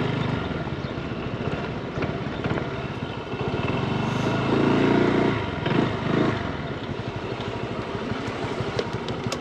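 Motorbike engine running on the road, with a louder stretch of engine sound rising and falling between about four and six seconds in.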